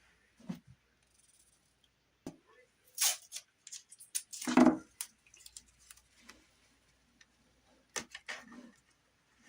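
Scattered clicks, taps and short rustling bursts of hand work with materials and tools, loudest in a fuller thump-and-rustle about four and a half seconds in.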